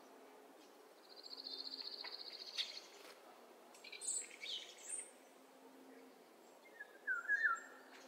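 Several wild birds calling: a fast, even, high trill about a second in, a few sharp high chirps around four seconds, and a short run of whistled notes near the end.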